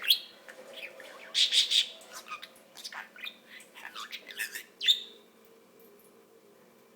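Pet budgerigar chirping and chattering in quick, sharp notes, with a dense run of calls about a second and a half in and a last loud chirp just before five seconds in, where it stops.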